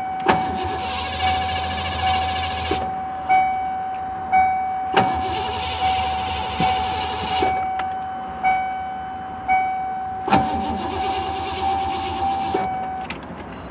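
A 1993 Ford Mustang 5.0's starter cranks the engine three times, about two and a half seconds each, and the engine never fires: a no-start with no spark. A repeating warning chime dings about once a second under the cranking.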